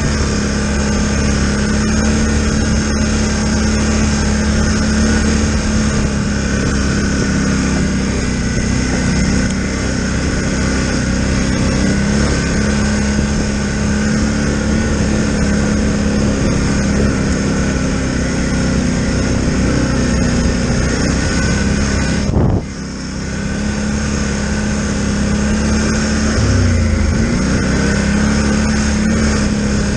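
Polaris Sportsman Highlifter 1000 ATV's parallel-twin engine running steadily at riding speed on a trail. About two-thirds of the way through the sound drops out sharply for a moment, and a little later the engine pitch briefly dips and rises again as the throttle changes.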